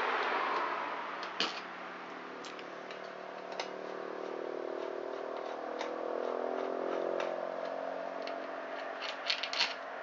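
Scattered light metallic clicks and clinks of engine bolts being handled and set down on a workbench, with a cluster of quicker clicks near the end. Under them, a low hum that slowly shifts in pitch swells up in the middle and fades.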